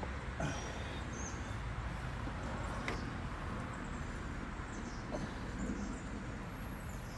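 Steady outdoor background noise with faint bird chirps and a few light clicks from small parts being handled.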